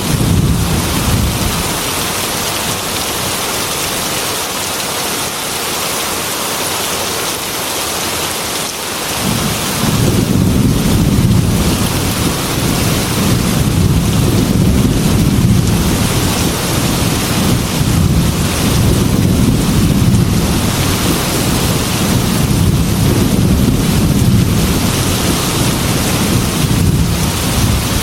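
Heavy rain beating steadily against a glass window with rolling thunder. A deep rumble eases after the first second, then swells again about a third of the way in and keeps rolling.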